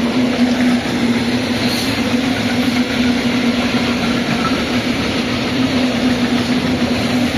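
Train passing close by: a continuous rumble of wheels on rails with a steady low hum running through it.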